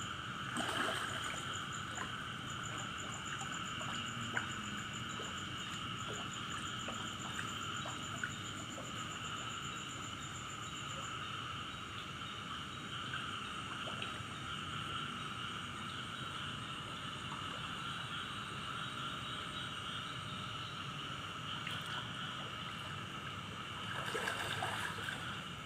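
Steady chorus of insects and frogs after heavy rain, with a high, fast-pulsing insect trill over it for roughly the first ten seconds and scattered small clicks. A brief louder rush of noise comes near the end.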